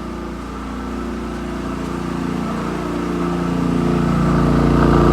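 Generator engine speeding up as the microwave's load comes on on top of the air conditioner and fridge: its steady hum rises in pitch and grows louder over the last couple of seconds.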